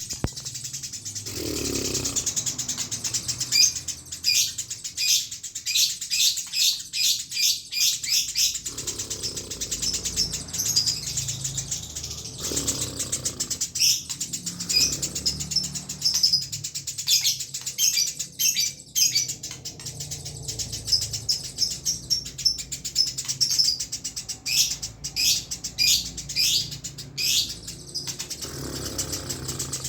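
Eurasian tree sparrow chirping in long, rapid runs of short, repeated notes, several a second, with only brief gaps between runs.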